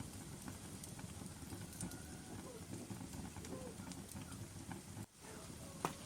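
Wood fire burning in a fireplace: scattered crackles and pops over a steady low rumble, with one sharp pop near the end. The sound drops out briefly about five seconds in.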